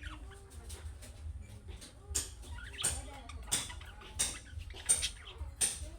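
Budgerigars chattering and chirping, with a string of sharp, high chirps about every 0.7 s from about two seconds in.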